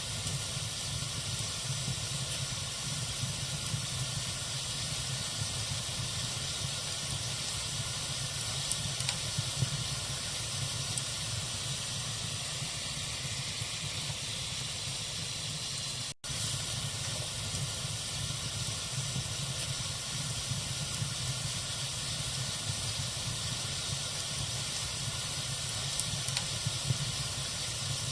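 Log fire burning in a fireplace: a steady hiss with a few sharp crackles, some about a third of the way in and more near the end. The sound cuts out for an instant about halfway through.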